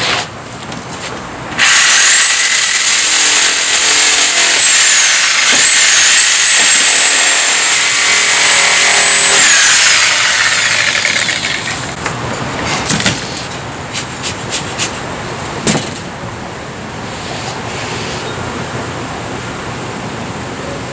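Handheld electric power tool, likely a saw, cutting into a wooden cable spool: the motor whine rises to speed, dips briefly as it bites, holds for about eight seconds and winds down. A few sharp knocks follow.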